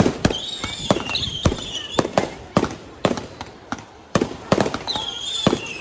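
Fireworks display: a rapid, irregular series of sharp bangs from bursting shells, with high wavering whistles running over them at times.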